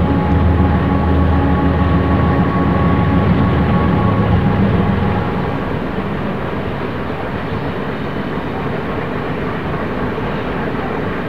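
Loaded coal freight train passing: diesel locomotive engine running with a low drone and a couple of steady higher tones that fade out about five seconds in, leaving the steady rolling noise of the coal cars on the rails.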